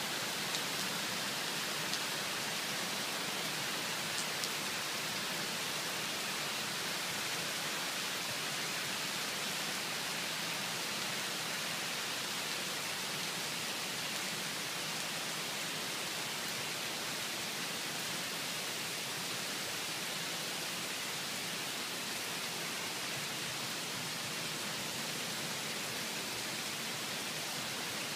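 Heavy rain falling steadily, an even hiss with a few faint ticks in the first few seconds.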